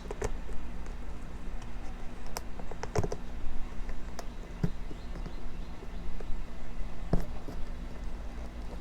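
Buckles and straps of a new motocross boot being undone: a scattered series of sharp clicks and light knocks, several seconds apart.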